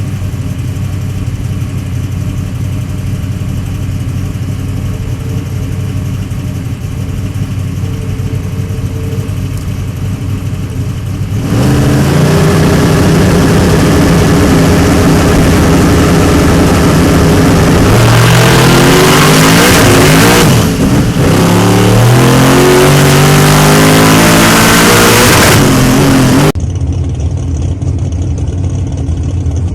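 Twin-turbo 1970 Chevelle drag car's methanol-fuelled engine running at a steady idle, then revved up to a loud steady hold about twelve seconds in. From about eighteen seconds the revs climb, drop briefly near twenty-one seconds as at a gear change, and climb again. The sound cuts off suddenly near the end, back to a quieter running engine.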